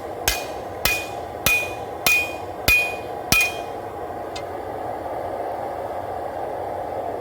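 Forging hammer striking a hot W-2 steel knife blade on an anvil: six ringing blows a little over half a second apart, stopping after about three and a half seconds.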